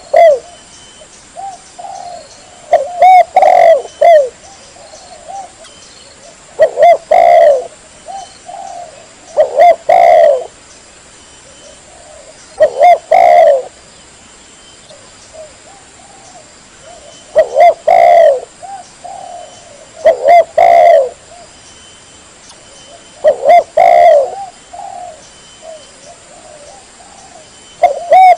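Spotted dove (tekukur) cooing loudly: the same short call phrase repeated about every three to four seconds, about eight times.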